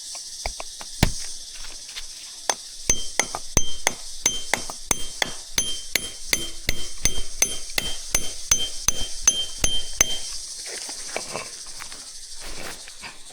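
Rapid series of sharp knocks, about two to three a second, many with a short high metallic ring, over a steady high hiss; the knocking dies away about ten seconds in.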